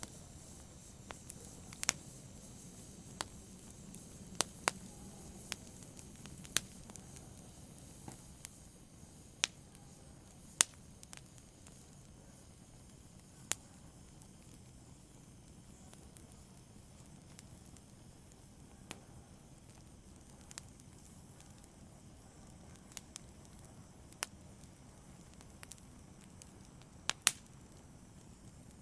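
Wood fire in a fireplace crackling: a soft steady hiss with irregular sharp pops and snaps, a dozen or so louder ones among many faint clicks, fewer in the middle stretch and a close pair near the end.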